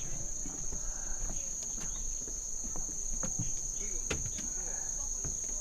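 Steady, high-pitched insect chorus, with a few sharp clicks and faint distant voices.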